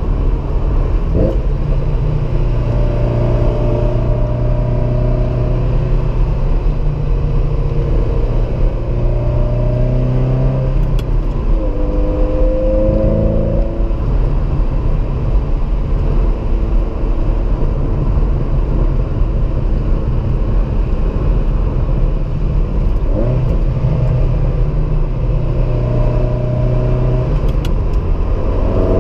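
Ferrari 328 GTS's mid-mounted V8 heard from the cockpit while driving, its note rising and falling with the throttle a few times along the road, over a heavy low rumble and road noise.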